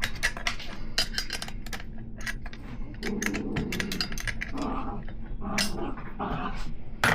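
Wrench clicking rapidly against metal for about three seconds, then a few short low vocal sounds, and a sharp metal clank near the end as the wrench is set down.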